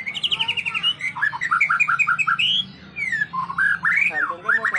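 White-rumped shama (murai batu) singing a rapid, varied song of whistled notes: quick runs of repeated notes and rising and falling slurs.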